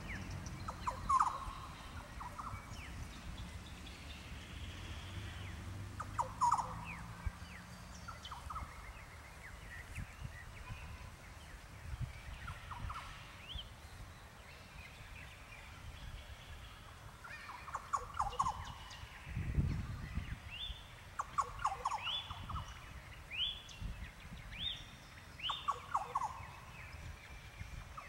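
Birds calling: short calls repeat every few seconds, with quicker rising chirps in the second half. There is a brief low thump about two-thirds of the way through.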